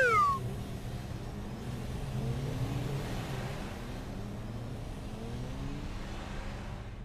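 Sound effect of car engines running steadily, with several brief rising revs as cars accelerate. A falling cartoon tone trails off right at the start.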